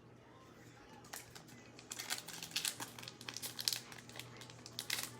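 Crinkling and tearing of a trading-card pack's foil wrapper as it is ripped open and handled. It starts faintly about a second in and becomes a dense run of crackles from about two seconds on.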